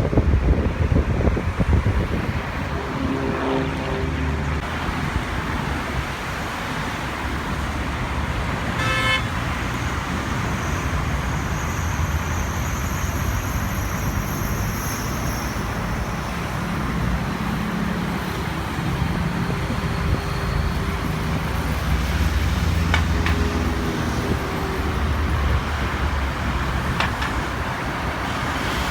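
Steady road traffic noise, with vehicle engines running and a brief high tone near the middle.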